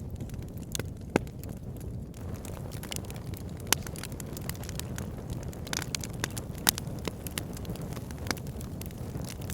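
Wood fire burning in a log burner: a steady low rumble of flames with irregular sharp crackles and pops from the logs, a few standing out louder.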